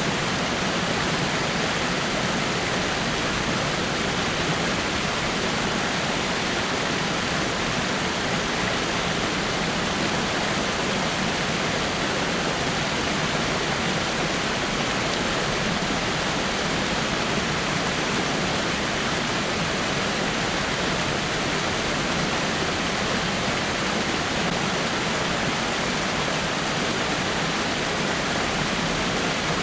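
Rock waterfall, water falling and splashing over rocks in a steady, unbroken rush.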